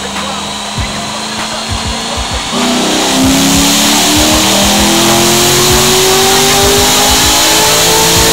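Cammed Corvette Z06's LS7 V8 making a pull on a chassis dyno. About two and a half seconds in it comes in hard, and the engine note climbs steadily as it revs up under load.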